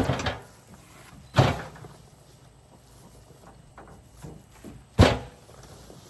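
Heavy sacks of feed landing one at a time as they are loaded: three dull thuds, the second soon after the first and the third a few seconds later.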